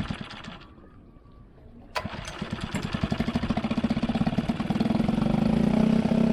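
Small dinghy outboard motor, run in a bucket of water with a freshly refurbished spark plug. Its first pulses die away to near quiet, then about two seconds in it starts again, its beat quickening into a steady run. The owner feels it is still not running quite as it should.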